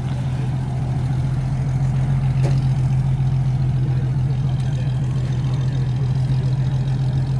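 Engine of a classic 1960s Ford Mustang convertible running steadily at low revs as the car creeps past at walking pace, a deep even hum. There is a brief faint click about two and a half seconds in.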